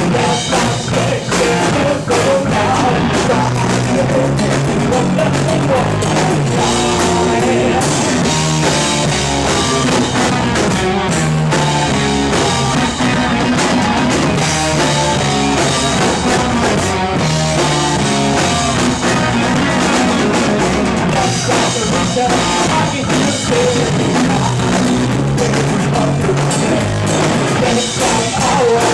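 A rock band playing live and loud, with drum kit, guitar and bass, in one steady, unbroken stretch of a song.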